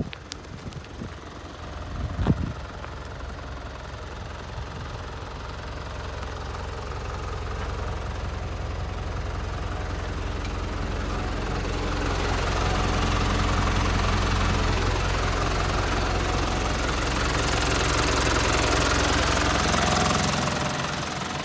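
Hino S05D diesel engine of a truck running steadily. A sharp thump comes about two seconds in, and the engine grows gradually louder with a rising hiss before easing off shortly before the end.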